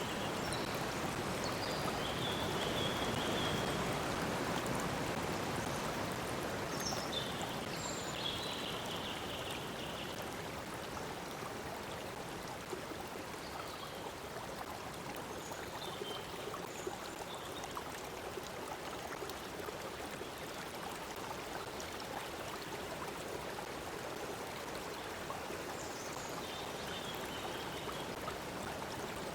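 Stream water flowing and splashing steadily, with short high bird calls now and then, most of them in the first ten seconds and again near the end.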